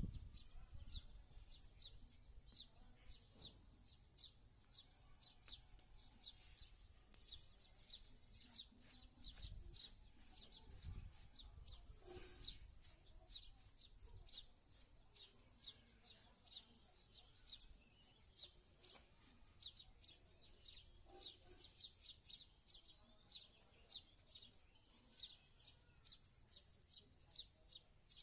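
Small birds chirping: a long, steady run of short, high-pitched chirps, several a second.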